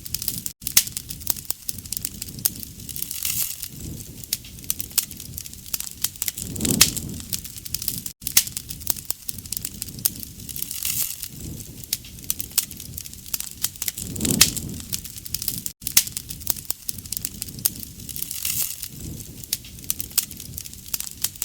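Campfire crackling: a steady stream of sharp pops and snaps, with a low rush of flame swelling up every several seconds.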